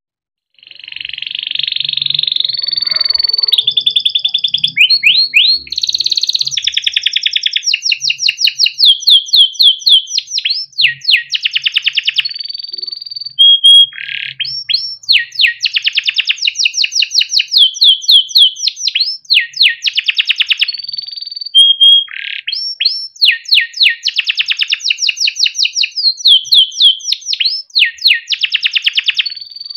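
Yellow canary singing a long unbroken song, starting about half a second in: fast rolling trills and runs of rapid repeated notes, broken by short clear whistles.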